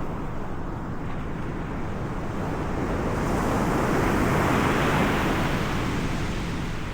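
Sea waves washing in, one swell of surf that builds about halfway through and then falls away, over a steady rumble of wind on the microphone.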